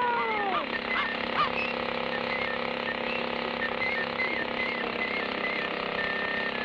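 Cartoon soundtrack: a long falling whistle-like glide that ends about half a second in, then a steady rushing noise with short high stepping notes over it.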